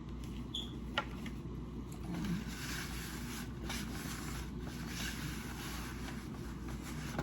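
Paper towel rubbing and rustling as sticky hands are wiped, irregular and coming in waves, with a sharp click about a second in, over a steady low room hum.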